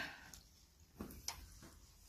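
Quiet mouth sounds of someone chewing and tasting food, with a few soft wet clicks, the clearest about a second in.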